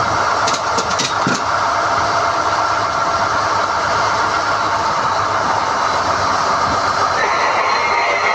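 SDH-1600 core drilling rig running steadily while hoisting NQ drill rods. A few sharp metallic clicks come about half a second to a second in, and a higher whine joins near the end.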